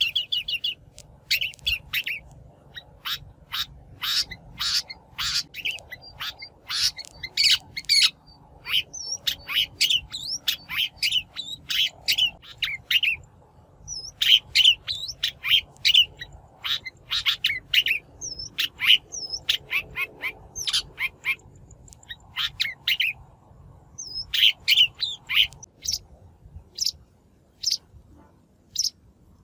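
Shrike singing: rapid series of short, harsh chattering notes mixed with brief slurred whistles, broken by short pauses and falling quieter near the end. A lure call recording, used to draw in wild shrikes or to teach the song to caged birds.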